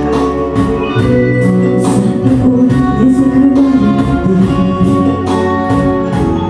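Instrumental backing track playing a song's introduction: sustained chords over a steady beat of about two strokes a second.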